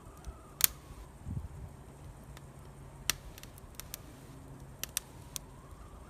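Wood fire crackling: a handful of sharp, scattered pops over a low steady rumble, with a dull thump about a second in.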